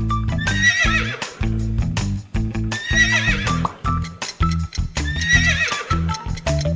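Horse neighing three times, each whinny a wavering call that falls in pitch, over background music.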